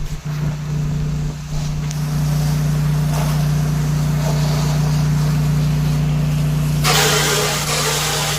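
A high-flow pressure washer running steadily, its engine giving a constant hum. About seven seconds in, a loud rushing hiss of the water spray comes in for over a second.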